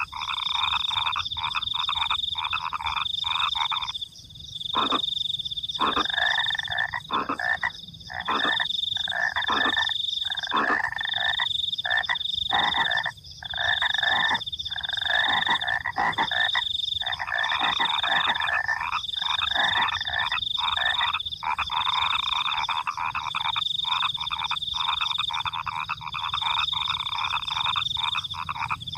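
A night chorus of many frogs croaking continuously in fast, rattling pulses, dropping out briefly a few times. Over it, crickets chirp in regular high trills about a second long.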